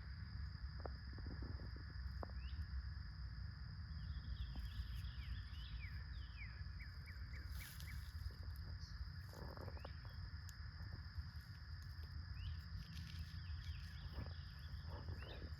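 Outdoor birdsong: many short chirps over a steady high drone of insects, with a low rumble underneath.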